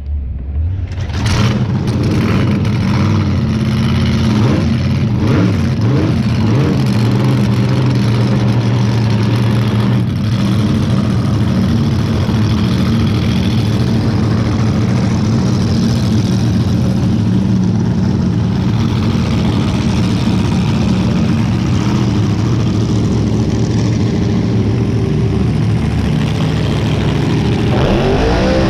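Front-engine dragster engine firing up about a second in, then running at a loud, steady idle, with the revs just starting to rise and fall at the very end.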